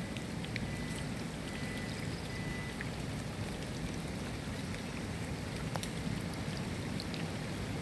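Steady rain falling: a constant hiss with scattered sharp ticks of single drops striking.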